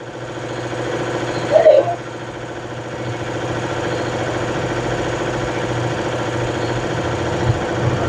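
Motorcycle engine running steadily with a fast, even chugging pulse, swelling over the first second or so. A brief voice cuts in about a second and a half in.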